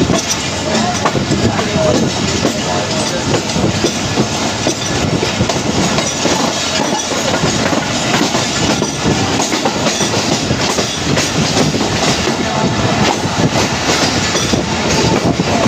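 Passenger train carriage running on the track: a steady rumble with continual clattering of the wheels over the rails.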